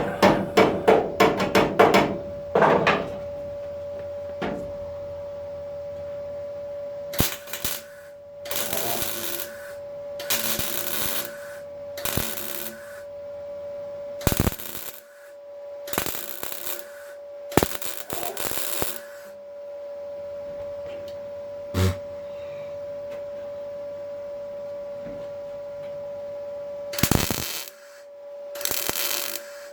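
A quick run of hammer blows on sheet steel, then about ten short bursts of MIG welding, each a second or less, over a steady hum.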